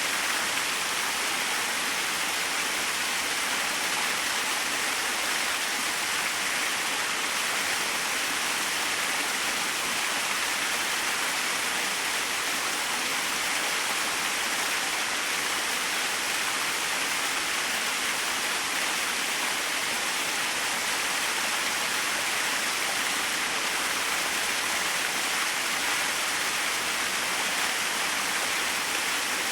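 Small waterfall splashing steadily: an even, unbroken hiss of falling water with little low rumble.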